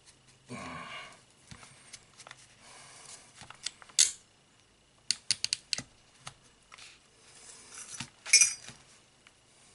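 Small metal parts of a rifle scope clinking, tapping and scraping as they are handled and pushed with a metal tube. The loudest clinks come about four seconds in and again near the end.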